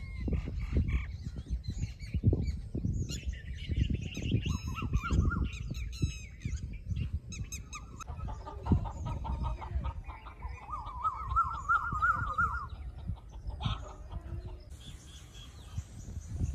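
Birds calling: high chirping and warbling, then a run of repeated calls that climb in pitch, over a loud, uneven low rumble.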